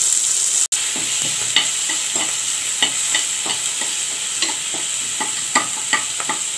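Chopped onions, tomatoes and green chillies sizzling in hot oil in an aluminium pressure cooker while a spoon stirs them, its edge clicking and scraping against the pan in short, irregular knocks. This is the sauté stage, with turmeric and salt just stirred in.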